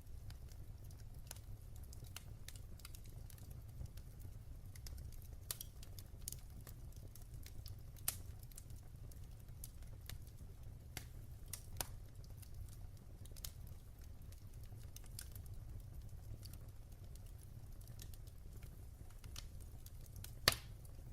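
Fireplace fire crackling: irregular sharp pops and ticks over a steady low rumble, with one louder pop near the end.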